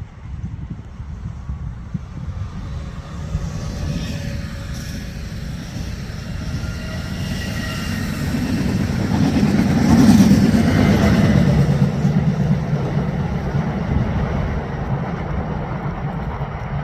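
A train passing through the station, its noise swelling to a peak about ten seconds in and then easing off as it goes by.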